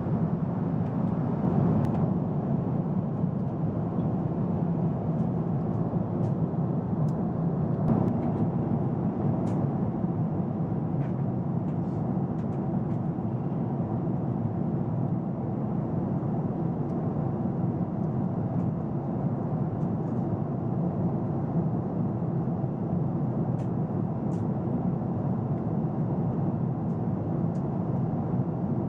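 Steady engine and airflow noise inside the passenger cabin of a Boeing 777, an even rumble with no change in pitch, with a few faint clicks.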